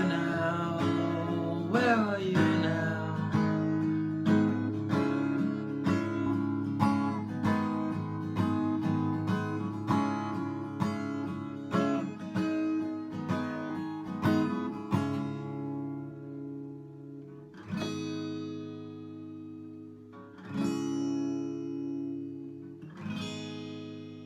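Acoustic guitar strummed in a steady rhythm of chords. About two-thirds of the way through it slows to a few single strums, each left to ring out.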